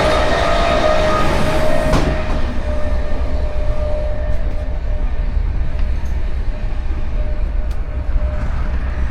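Passenger train running, a steady low rumble. For the first two seconds a brighter hiss with steady high tones sits over it, and this stops abruptly; a few faint clicks follow.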